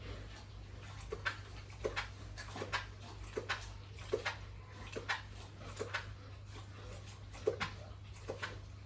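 Pigs making short, sharp sounds, about one or two a second, over a steady low hum.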